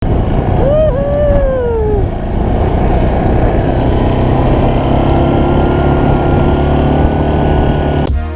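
A motor vehicle's engine running steadily with a heavy, even rumble. A short rising-then-falling high call or whoop comes about a second in.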